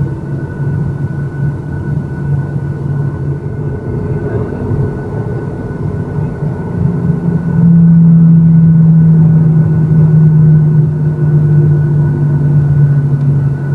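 Boeing 737-800 cabin noise: the steady hum and drone of the CFM56-7B engines with a thin high whine. About eight seconds in, the low drone grows markedly louder and holds, as when engine power is increased.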